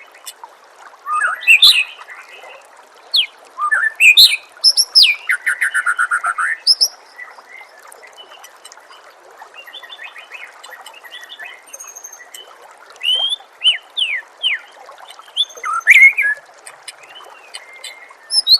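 White-rumped shama (murai batu) singing in separate phrases of rapid whistles, trills and down-slurred notes, with quieter gaps between them. A steady hiss of trickling water runs underneath.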